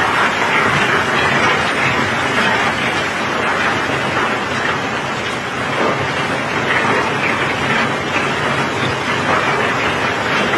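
Steady heavy rain and running water on a wet steel barge deck, over a low mechanical rumble.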